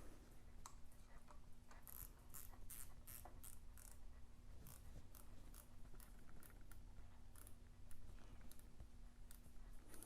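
Faint, irregular clicks and scrapes of a motorcycle fork stem phone mount being handled and adjusted, over a steady low hum.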